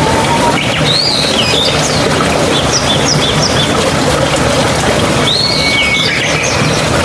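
A mountain stream rushing steadily, with small birds calling over it: a short whistled phrase about a second in, a run of four quick chirps, and another whistled phrase later on.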